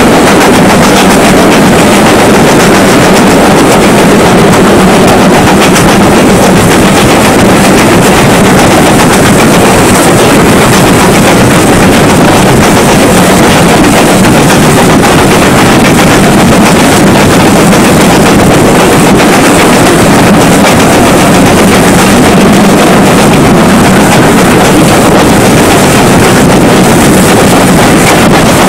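Steady, loud rushing noise of a moving steam train, with wind buffeting the microphone into a constant rapid flutter; no separate exhaust beats or whistle stand out.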